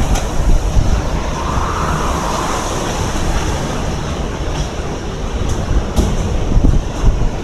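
Typhoon wind blowing hard in gusts, buffeting the microphone with a heavy low rumble, with a couple of sharp knocks.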